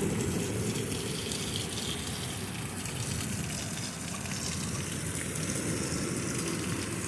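Heavy storm rain pouring down, a steady rush of water.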